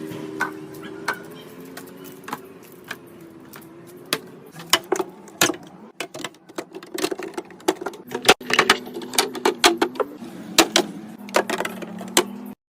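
Clatter of containers and food items being handled and set down in a refrigerator: many sharp clicks and knocks of plastic and glass, busiest in the second half, over a low wavering hum. The sound cuts off suddenly near the end.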